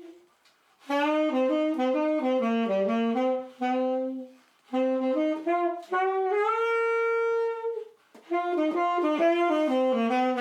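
A solo saxophone plays a melody in three phrases with short breaths between them, holding one long note in the middle phrase.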